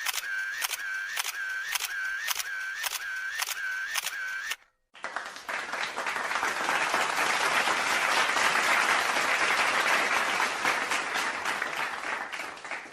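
A camera shutter firing again and again, about two clicks a second, each with a short whirring tone, stopping after about four and a half seconds. About five seconds in, a crowd starts applauding and keeps on clapping.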